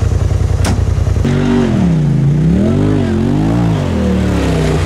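Polaris RZR Turbo S side-by-side's turbocharged twin-cylinder engine pulsing at a steady speed. About a second in, the revs drop and climb again several times as the throttle is worked while it spins donuts in the snow.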